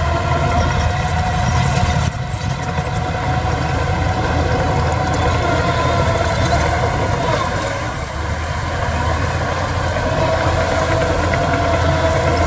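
Heavy earthmoving machine's engine running steadily, with a wavering high whine over the rumble.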